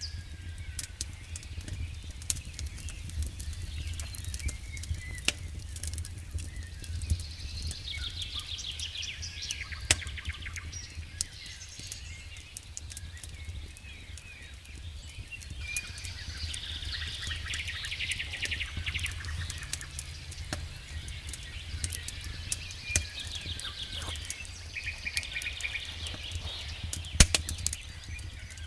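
Campfire crackling with scattered sharp pops, while birds sing trilling phrases every few seconds.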